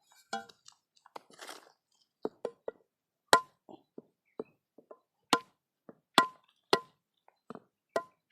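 Hard woody shells of unripe wood apples being knocked to crack them open: a run of sharp, irregular knocks, several of them louder with a short ring.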